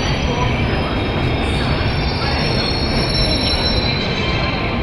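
Train running on the rails with a steady heavy rumble, and a thin high squeal of the wheels on the track, strongest midway.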